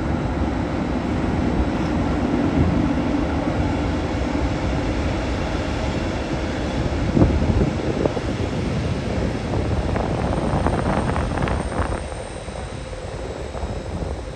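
Hungarian State Railways electric locomotive hauling a passenger train through the station, a steady rumble and hum of the locomotive and wheels on the rails. A single knock comes about seven seconds in, and a cluster of sharp wheel clicks around ten to twelve seconds in, after which the noise eases off.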